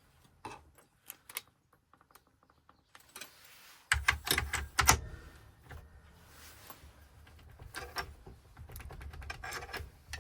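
Small metal parts clicking and clattering as a key blank is fitted and clamped in place: a few scattered clicks at first, then a louder run of rattling about four seconds in, with a low hum starting at the same time.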